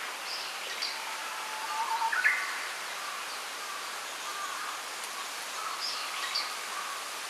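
Small wild birds calling in a bamboo grove: a few short high chirps near the start and again about six seconds in, and one louder call about two seconds in. A steady background hiss runs underneath.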